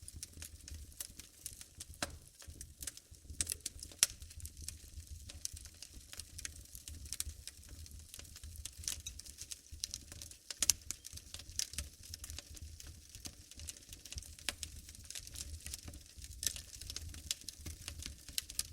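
Wood fire burning in a fireplace, crackling with many small irregular pops and a few sharper snaps, over a low steady rumble of the flames.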